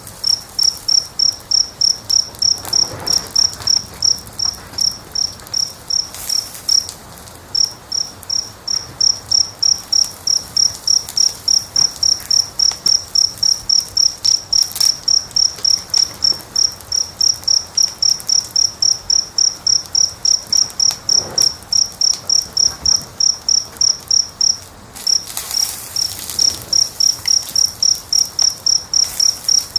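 An insect chirping steadily: a short, high, single-pitched chirp repeated about three times a second, pausing briefly about seven seconds in and again near the 25-second mark.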